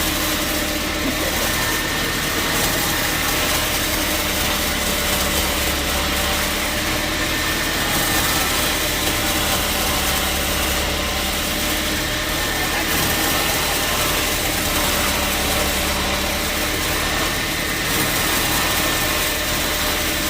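Sawmill machinery running steadily: a constant motor hum under an even, hissing noise, with no pauses or distinct knocks.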